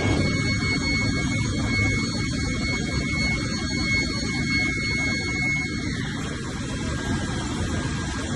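Textile rope-opening machine running with a steady mechanical drone and a thin high whine. The whine drops in pitch about six seconds in.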